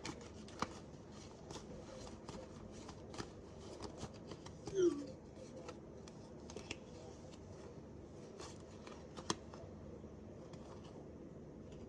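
Tarot cards being shuffled and handled, with scattered soft flicks and clicks of the cards. A short falling murmur of a voice about five seconds in.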